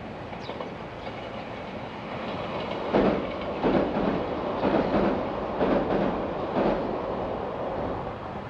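A train passing, its wheels clacking over the rail joints in a run of heavy knocks about a second apart, over a steady rumble that swells and then fades.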